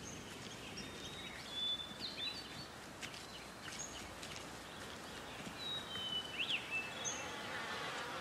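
Woodland ambience with a few birds calling: scattered short, thin whistled notes and quick chirps, some sliding in pitch, over a low steady background hiss.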